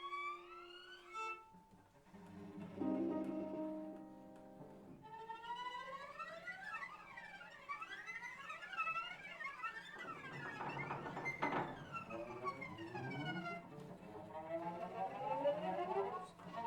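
Piano trio of piano, violin and cello playing contemporary chamber music: a few sustained held tones, then the strings sliding up and down in overlapping glissandi that cross one another, building into a denser, louder passage in the second half.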